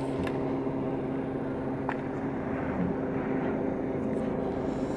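Electric mountain railway railcar running: a steady hum with several held tones.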